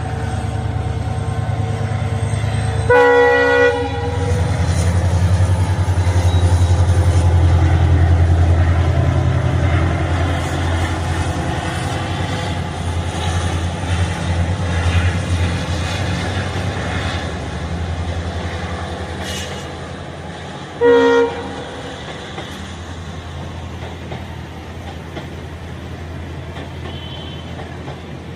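Passenger train pulling slowly past: the locomotive's deep rumble swells as it goes by, then the coaches roll past with wheel clatter. Two short horn blasts sound, one about three seconds in and another about two-thirds of the way through.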